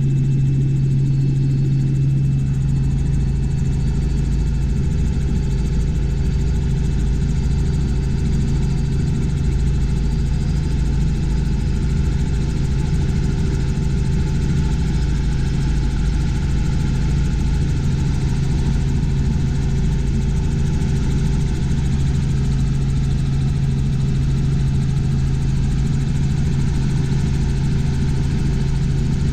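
Robinson R44 Clipper II helicopter in cruise, heard from inside the cabin: its Lycoming six-cylinder piston engine and rotors make a loud, steady drone with a strong low hum that does not change.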